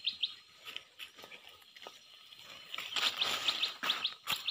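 A small bird chirping quickly and repeatedly, louder in the last second and a half, over light rustling and a few sharp snaps of leafy plants being picked by hand.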